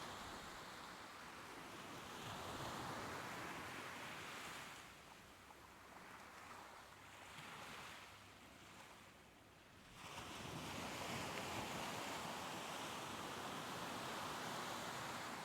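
Soft ocean surf washing in and out, a steady hiss that swells and recedes. It sinks into a quieter lull in the middle, then a wave surges back about ten seconds in.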